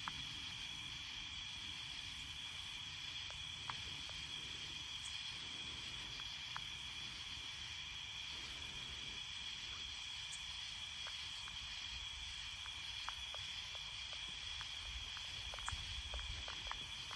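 Steady high-pitched chorus of night insects, with a few faint ticks and some low rumbling near the end.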